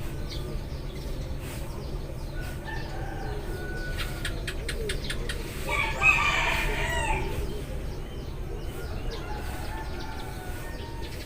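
Eurasian tree sparrows chirping in short repeated notes, with a rooster crowing loudly once about six seconds in, the loudest sound, over a steady low background hum.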